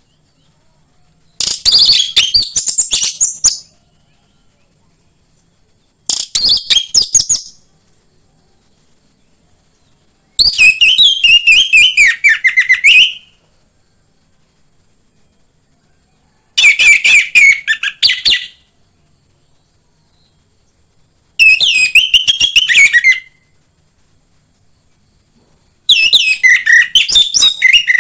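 Orange-headed thrush singing: six phrases of rapid, varied high notes, each one to two and a half seconds long, with pauses of a few seconds between them.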